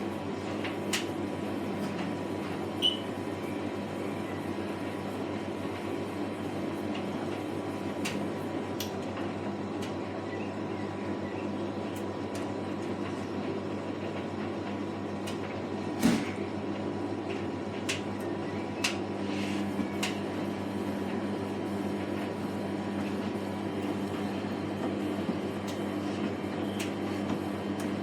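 Samsung WW80J5555FWEU front-loading washing machine running a wash with a duvet inside: a steady drum-motor hum with occasional sharp knocks, the loudest about halfway through.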